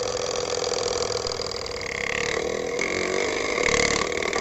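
Plastic card flapping against a turning bicycle wheel's spokes, its rapid clicks run together into a motorbike-like buzz amplified by a cut plastic water can. It is meant to imitate a KTM Duke motorcycle's engine. The pitch shifts around the middle as the wheel speed changes.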